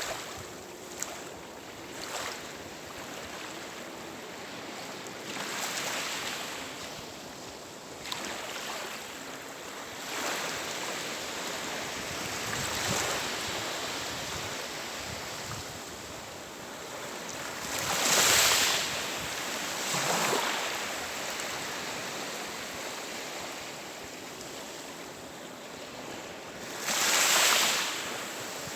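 Sea surf: a steady wash of waves, swelling and easing, with two louder breaking waves, one about two-thirds of the way in and one near the end.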